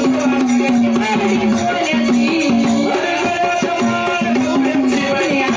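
Marathi gondhal devotional folk music: a held melody line that steps from note to note, over a dense beat of rattling percussion and drums.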